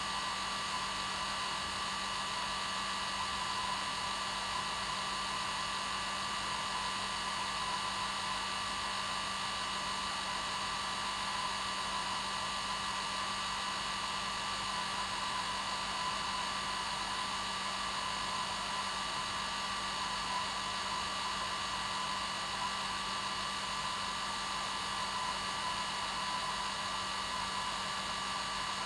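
Hair dryer running steadily, an even rushing blow with a constant motor whine.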